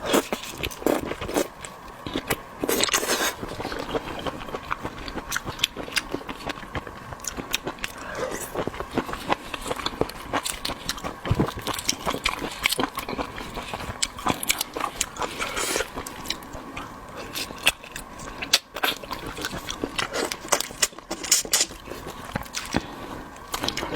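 Seafood being eaten close to the microphone: irregular biting, chewing and crackling with many sharp clicks.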